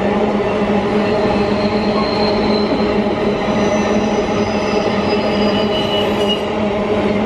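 Empty iron-ore freight train running by: a steady, loud drone with faint high wheel squeal from about two seconds in until near the end.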